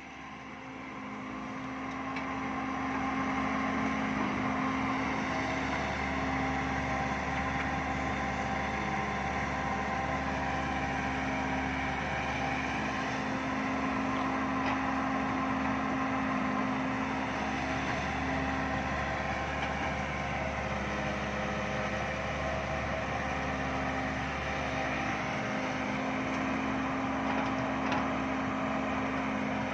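Heavy diesel engine running steadily, swelling in level over the first few seconds and then holding an even drone.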